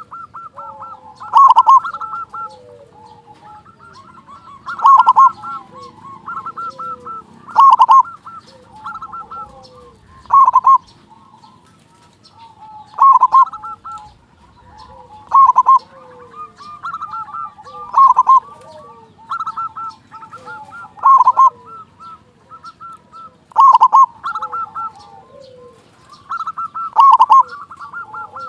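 Zebra dove (perkutut) cooing: a loud rolling phrase about every two and a half seconds, with softer trilled and falling coo notes between.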